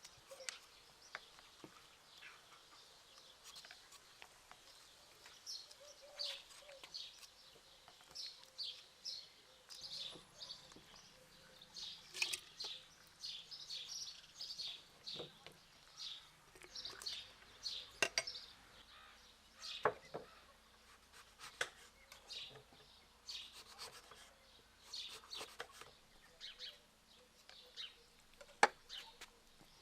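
Small birds chirping and twittering over and over, with a few sharp clicks or taps now and then, the loudest one near the end.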